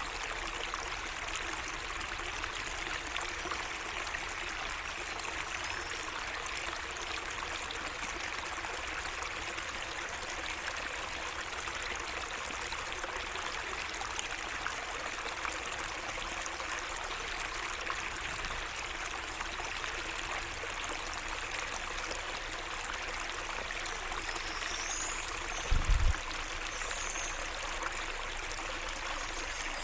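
Small garden waterway running with a steady trickling and splashing of water. Near the end a few short, high bird chirps sound, and about 26 seconds in there is a brief low thump, the loudest moment.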